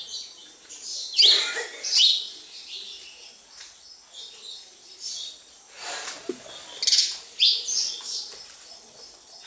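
House sparrows chirping, short high chirps coming in irregular loud flurries.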